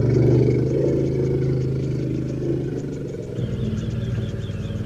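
Elephant rumbling: one long, low, steady call that starts abruptly, with faint bird chirps in the second half.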